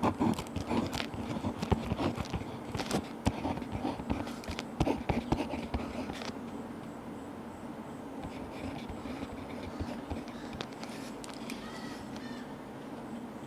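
Desk and stationery handling: irregular clicks and taps for about six seconds, then softer, steadier scratching of writing on paper.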